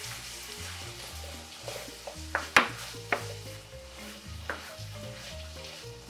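Dakgalbi (sauced chicken, cabbage and rice cakes) sizzling in a pan as it is stirred with a silicone spatula and a wooden spoon, with a few sharp knocks of the utensils against the pan in the middle, the loudest about two and a half seconds in.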